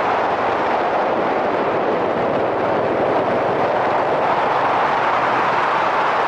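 A Yamaha SRX400 single-cylinder motorcycle being ridden, its engine running steadily under a constant rush of wind over a helmet-mounted camera.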